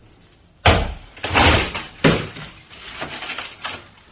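A section of interior wall being pulled and broken out by hand. There is a sharp crack a little over half a second in, then more cracking and crashing, another sharp hit about two seconds in, and several smaller knocks and scrapes.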